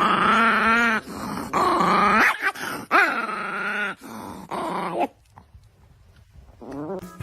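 A dog making a series of drawn-out, wavering whining and growling vocalizations, about five in a row, then a short pause and one more brief call near the end.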